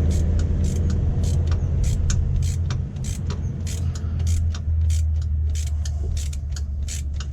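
Socket ratchet clicking as nuts are wound on, a quick irregular run of sharp clicks at roughly four a second, over a steady low hum.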